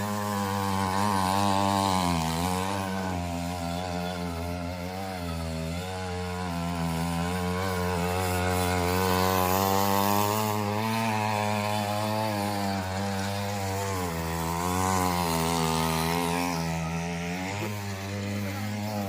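3 hp two-stroke petrol engine of a mini weeder (soil tiller) running steadily, its revs dipping and picking up again several times.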